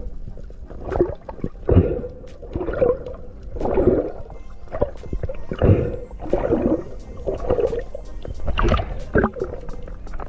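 Muffled underwater water noise: sloshing and gurgling that swells and fades about once a second.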